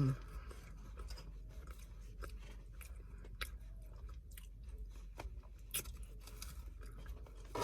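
A person chewing food, with irregular wet clicks and small crunches.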